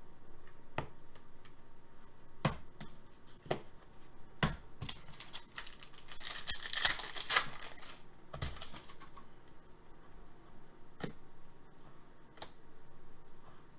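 Trading cards and packs being handled: scattered sharp clicks and taps, with a burst of crinkling and tearing wrapper from about five and a half to nine seconds in.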